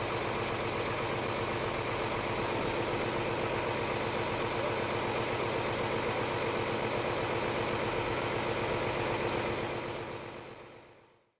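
Scania R500 crane lorry's V8 diesel engine idling steadily, fading out near the end.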